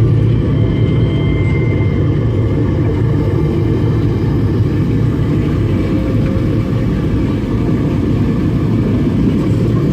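Steady, loud low rumble from a submarine ride's soundtrack during a simulated dive.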